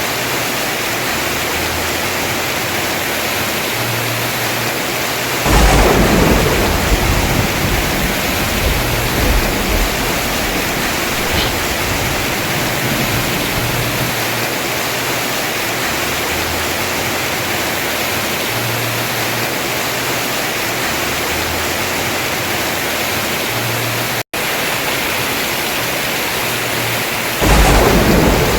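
Heavy rain pouring steadily on a house roof, with two thunderclaps: one about five seconds in that rumbles away over a few seconds, and another near the end. The sound drops out for an instant about three-quarters of the way through.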